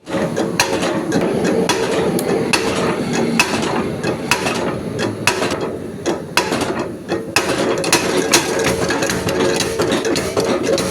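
Metal being struck in a blacksmith's workshop: sharp, irregular knocks, roughly one or two a second, over a steady hum.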